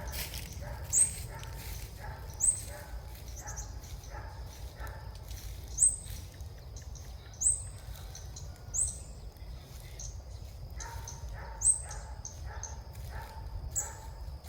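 Small bird giving short, high, upward-hooked chirps, repeated every second or two, with fainter, lower chirping beneath.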